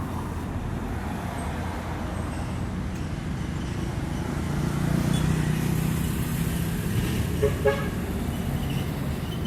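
Heavy road traffic of trucks and buses, a steady low rumble of engines and tyres that swells about halfway through as a vehicle passes close. Near the end a vehicle horn gives two short toots.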